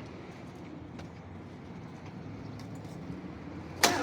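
Faint steady low hum, then near the end a sudden loud onset as the car's V8 engine is started and catches.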